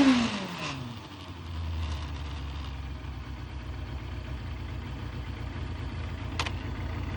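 Suzuki GSX250FX motorcycle's engine settling from a rev back down to a steady idle, with a sharp click near the end.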